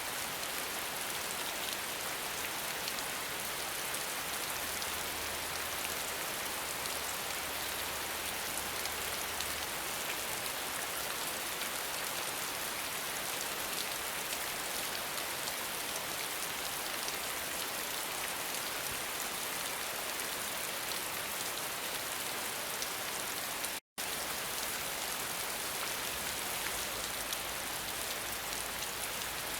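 Steady rain falling, an even hiss of fine drops. It cuts out for an instant about three-quarters of the way through, then carries on unchanged.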